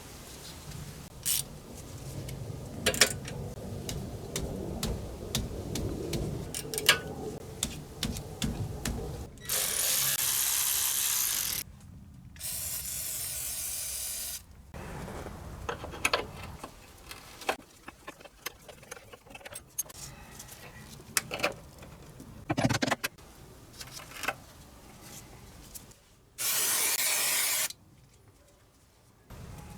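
Hand tools working on a car's front brakes: scattered metallic clicks and knocks, broken by three steady hissing blasts of about two seconds each, two near the middle and one near the end.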